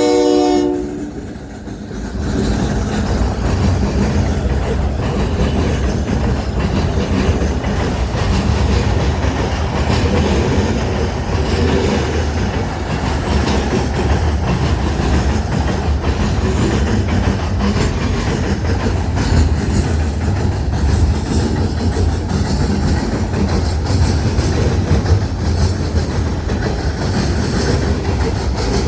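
A train horn chord cuts off about a second in. Then the train rolls past with a steady low rumble and the clickety-clack of wheels over the rail joints.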